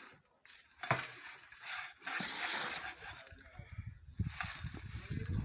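Cement and quarry-dust mix being stamped and compacted into a manual block mold: gritty scraping with a few sharp clinks, and dull low thuds over the last second or so.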